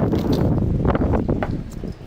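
Wind buffeting the microphone in a rumbling gust, with a few irregular crunching knocks through it.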